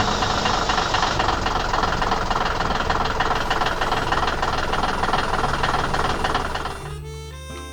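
A heavy machine's engine running with a dense, rapid rattle, which drops away near the end to a quieter stretch with a few steady tones.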